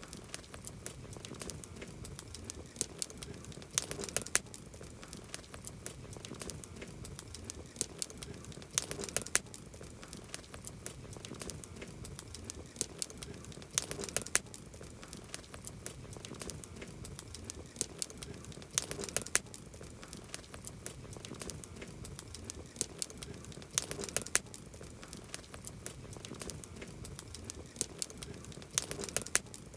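Campfire of burning wood crackling, with a steady low hiss and frequent sharp pops that bunch into denser flurries about every five seconds.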